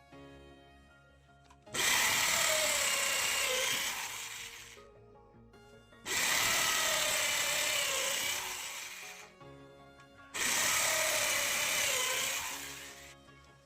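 Power drill running in three bursts of about two to three seconds each, its pitch wavering during each run, over background music.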